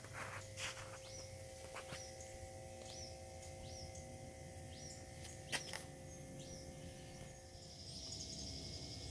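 Faint bird chirping outdoors, short rising-and-falling chirps repeated about one to two a second, with a steadier trill near the end. A few sharp clicks, the loudest about five and a half seconds in.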